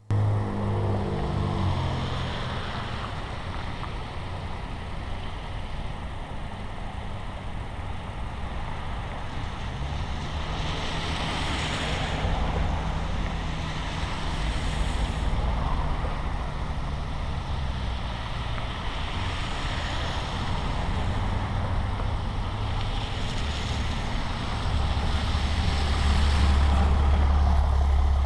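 Street traffic: vehicles passing one after another, each a swell of tyre hiss over a steady low engine rumble, loudest near the end.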